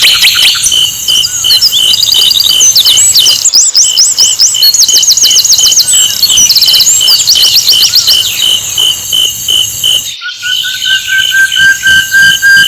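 Sikatan londo flycatcher song: loud, rapid trills of quickly repeated high sweeping notes. Underneath runs a steady chirp pulsing about three or four times a second. The song breaks off briefly about ten seconds in and gives way to a long, level, high whistling tone.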